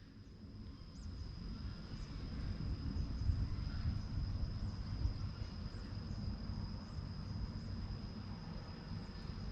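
Outdoor background between francolin calls: a low, uneven rumble with a thin, steady high-pitched whine running over it, and no bird call.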